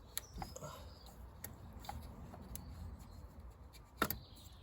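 Faint clicks and handling sounds of hands working a stuck exhaust pressure sensor off its pipe in a car's engine bay, with one sharper click about four seconds in.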